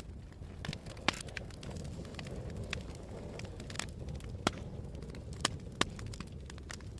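Wood fire burning in a fireplace, crackling with irregular sharp pops, a few louder snaps about a second in and in the second half, over a low steady rumble.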